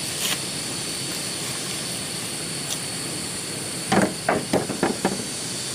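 Ducks quacking: a quick run of five or six short quacks about four seconds in, over a steady background hiss.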